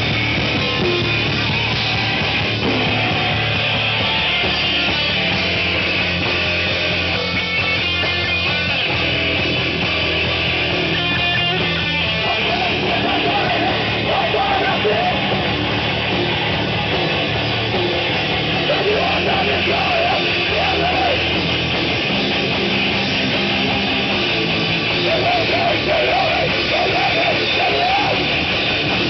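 Heavy rock music played by a band: distorted guitars over drums, with a wavering higher melody line coming in several times in the second half.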